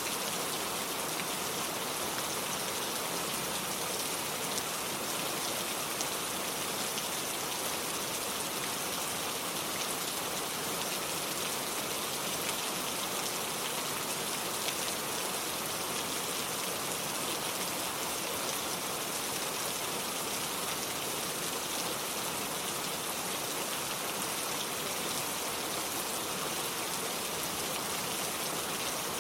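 Steady rain falling, an even patter of many small drops that holds without a break.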